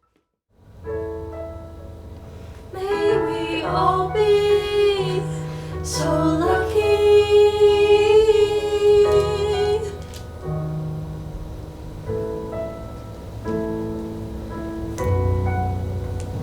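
Female voices singing a slow ballad over piano: the sung line enters about three seconds in, holds a long note, and falls away after about ten seconds, leaving the piano playing softly.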